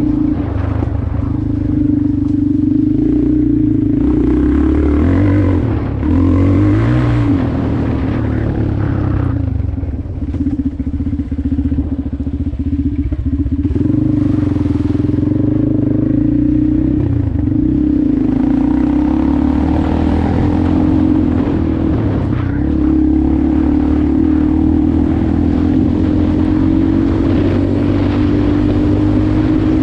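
Motorcycle engine running while riding, its pitch climbing and falling several times with the throttle. It eases off for a few seconds near the middle, then picks back up.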